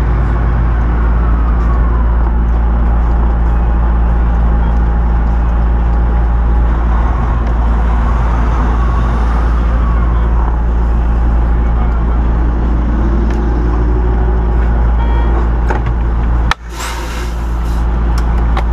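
Semi-truck diesel engine running steadily with a deep, even rumble. About three-quarters of the way through the sound drops sharply for a moment, then returns with a brief noisier burst before the rumble settles again.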